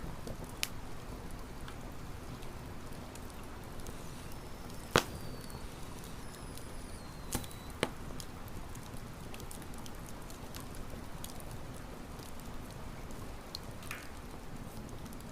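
Wood campfire burning with a steady low rustle and occasional sharp crackles and pops, the loudest about five seconds in and two more close together about a third of the way after it.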